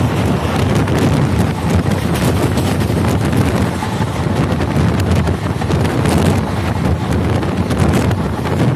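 Wind buffeting the microphone of a phone held out of a moving Indian Railways passenger coach, over the steady rumble of the coach running on the track, with irregular clicks and clatter from the wheels.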